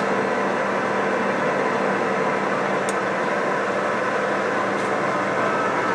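Yang engine lathe running under power: a steady mechanical hum with a few steady tones, and one short tick about three seconds in.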